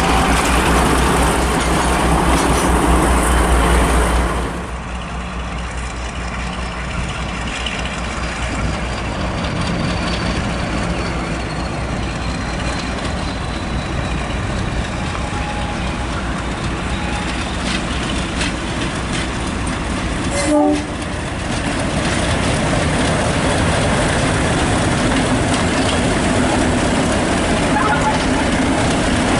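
A train running on the rails, with a strong low drone that drops away sharply about four seconds in, then steady running noise. There is a brief horn toot about twenty seconds in.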